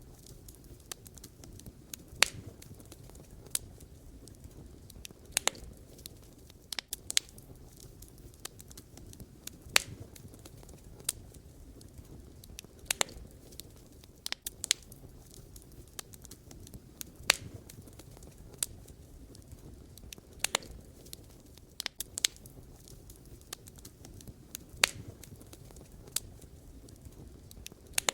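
Wood campfire burning: sharp, irregular pops and crackles every second or two over a steady low rumble of the flames.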